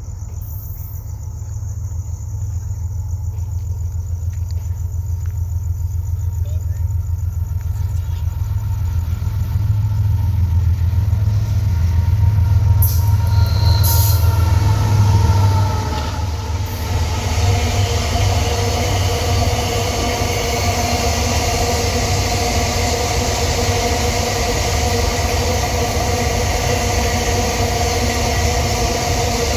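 GE ES44ACi and AC44i diesel-electric locomotives leading an empty iron-ore train: their deep engine rumble builds and peaks about halfway through as they pass, then gives way to the steady rolling clatter of the empty ore wagons, with held squealing tones from the wheels.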